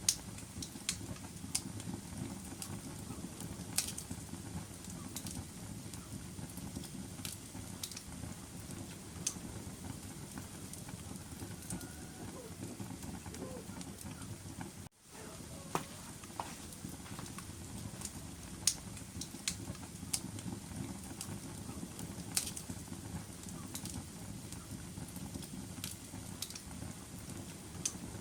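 Wood fire burning in a fireplace: a steady low rumble of flames with sharp, irregular crackles and pops. The sound cuts out for a split second about halfway through.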